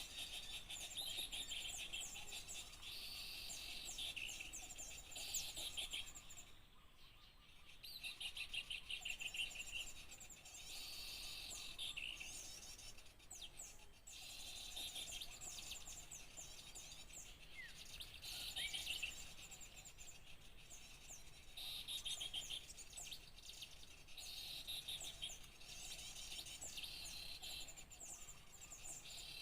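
Many small songbirds chirping and twittering together in rapid, overlapping trills, a mixed bird-lure recording of small species. The chorus dips briefly about seven seconds in.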